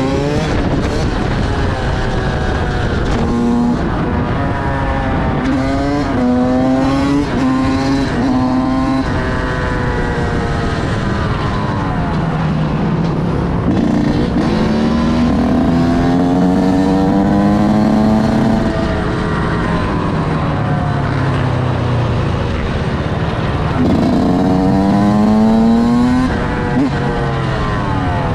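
Motorcycle engine accelerating through the gears: its pitch climbs and drops back at each shift several times, then rises more slowly in longer pulls.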